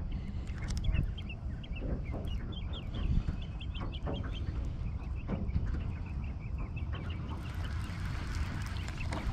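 Birds chirping, quick runs of short high calls in the first half and again near the end, over a steady low rumble.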